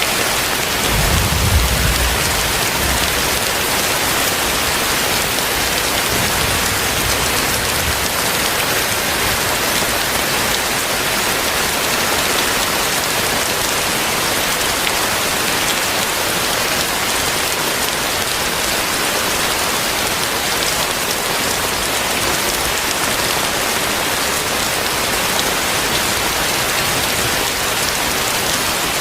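Heavy rain falling steadily, with a brief low rumble about a second in and a fainter one a few seconds later.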